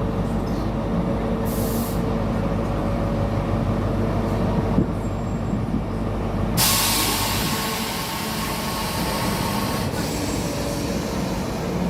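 A train running, a steady low rumble with a hum of a few even tones. About six and a half seconds in, a loud hiss comes in suddenly and carries on for a few seconds.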